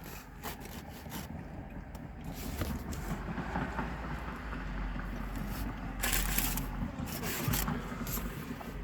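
Eating sounds: irregular crinkling and rustling of a paper food wrapper with chewing, louder for a moment about six seconds in, over a steady low rumble.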